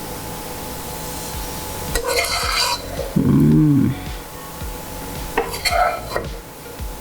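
Serving spoon scraping and clinking against a pan and serving bowl as cooked chicken fry is dished up, in two short stretches of clatter. Between them, about three seconds in, a short pitched sound is the loudest thing, over a steady faint background hum.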